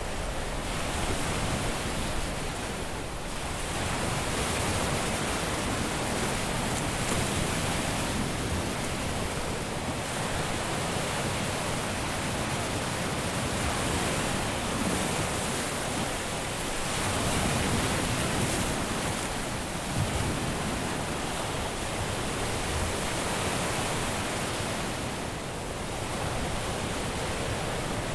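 Caribbean surf washing onto a beach: a steady rush of waves breaking and running up the sand, swelling and easing every few seconds.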